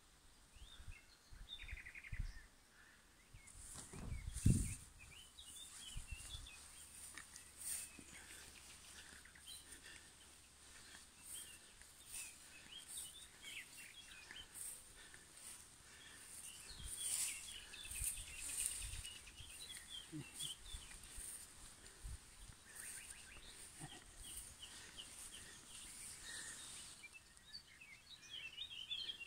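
Small birds chirping and singing, short scattered calls with no pause between them, with a few low thumps in the first few seconds, the loudest about four seconds in.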